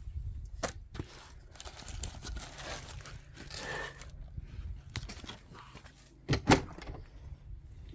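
Handling noises: rustling and scattered knocks as things are picked up and moved, with two loud knocks close together about six and a half seconds in.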